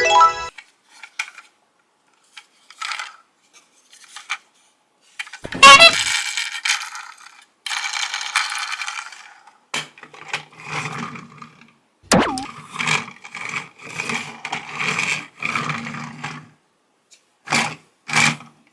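Small plastic toys clattering, knocking and scraping as they are handled, with irregular sharp knocks and rattles.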